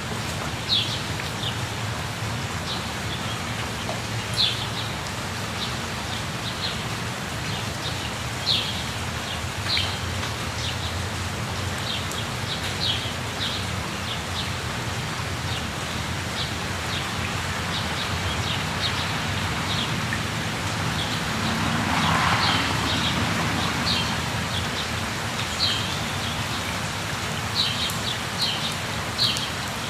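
Steady rush of a waterfall with jungle birds chirping over it, short high calls repeating every second or so. About two-thirds of the way through, the water noise swells briefly.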